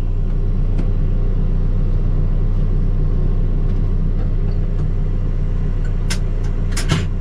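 Backhoe's diesel engine idling steadily, with a few sharp clicks or knocks near the end.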